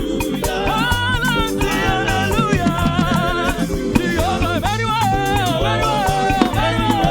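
Live gospel praise music: a band playing an upbeat song with a steady, repeating bass line, drums and singing voices.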